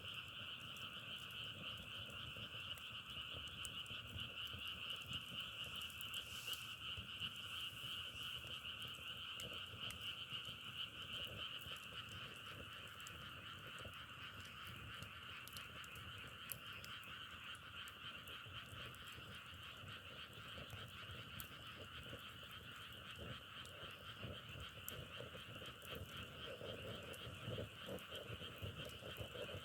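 Dense chorus of many frogs calling continuously, a steady, unbroken drone in two pitch bands, with scattered faint crackling clicks over it.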